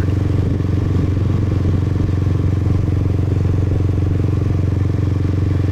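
Motorbike engine running steadily at cruising speed, an even, unchanging drone.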